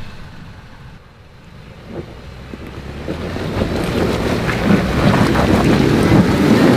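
Off-road truck engine revving under load on a slick hill climb, its rumble growing steadily louder from about three seconds in.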